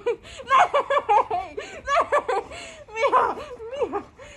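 A woman laughing in three high-pitched bouts of quick giggles.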